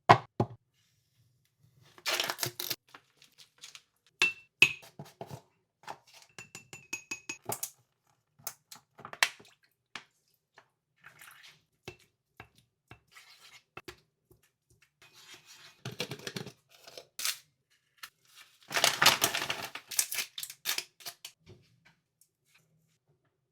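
A cat chewing a fish, with sharp crunches and wet tearing in irregular bursts and short pauses between.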